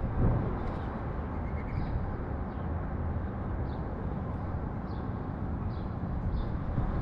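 Sparrows chirping in short, high, scattered notes over a steady low rumble of city traffic, which swells briefly right at the start.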